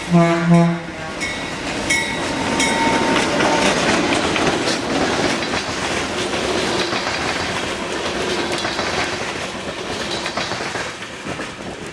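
An ALCO RS-32 diesel locomotive sounds its horn in a short blast, then the train rumbles past with wheels clicking over rail joints and a brief squeal, the noise swelling and slowly fading as it goes by.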